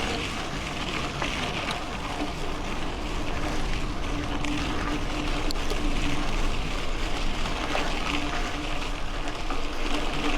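Mountain bike rolling along a dirt road: a steady rush of tyre noise, with a faint hum that comes and goes and a few light ticks.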